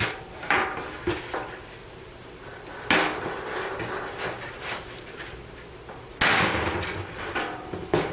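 Body hammer striking the bare sheet-steel header panel of a 1967 Camaro to knock out dents: a few separate sharp metallic blows, the loudest about six seconds in, which rings briefly.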